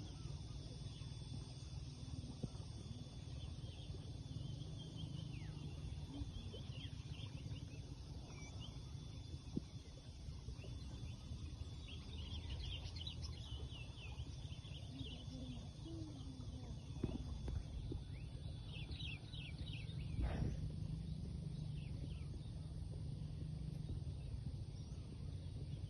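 Birds chirping in short, quick calls over a steady low rumble, with a thin steady high tone underneath.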